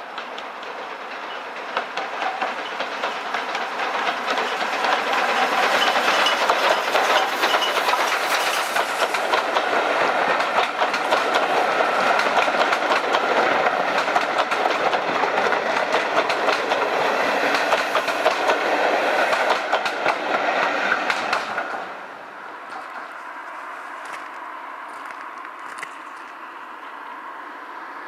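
A train passing close by: its coaches' wheels clatter over the rail joints in a fast run of clicks, the sound swelling over the first few seconds. It cuts off sharply about 22 seconds in as the last coach goes by.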